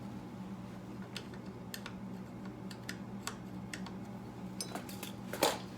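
Scattered light clicks and taps from hand work on motorcycle parts, with a louder scrape about five and a half seconds in, over a steady low hum.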